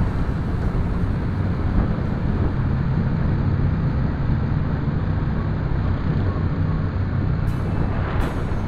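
Motorcycle engine running steadily while riding, a constant low hum under continuous road noise.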